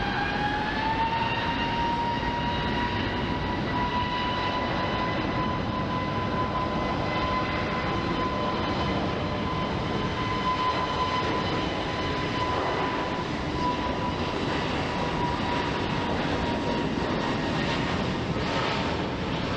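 Jet airliner's engines on a takeoff run: a whine rising in pitch in the first second, then holding steady over the continuous engine noise.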